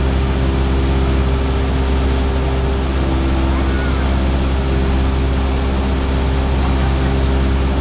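Cessna 172R's four-cylinder Lycoming engine and propeller running steadily in flight, heard inside the cabin as an even drone with a low hum under a wide rush of noise.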